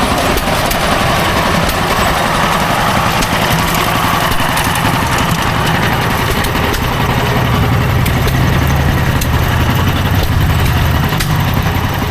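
An engine running steadily at idle, its low hum growing stronger about seven seconds in and easing near the end.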